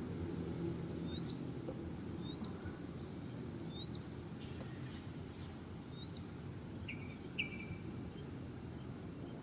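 A bird repeating a short high call about five times, each a quick sweep down and then up, with two shorter, lower calls a little past the middle, over a steady low rumble.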